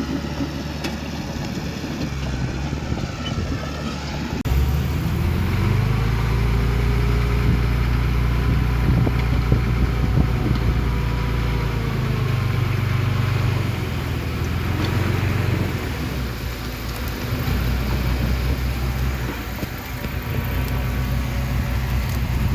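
Diesel engine of heavy earthmoving machinery running, its note rising and falling with the load. It grows louder about four seconds in, eases off a little past halfway, then picks up again.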